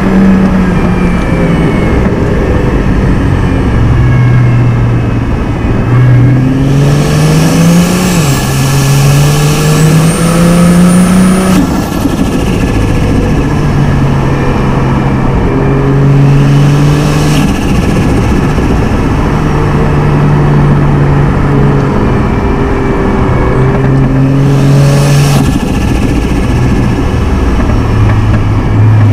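Turbocharged inline-six car engine driven through the gears, its note climbing under acceleration and falling back at the shifts, with brief bursts of hiss at a few of the changes.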